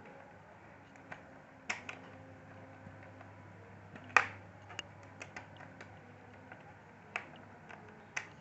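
Small clicks and taps of screws and a screwdriver working on a laptop's plastic case, irregular, with one louder tap about four seconds in.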